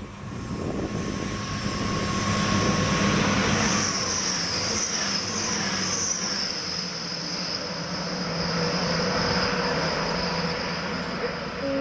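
Diesel train passing at speed, a steady rumble of wheels and engine with a high whine running through it from about four seconds in.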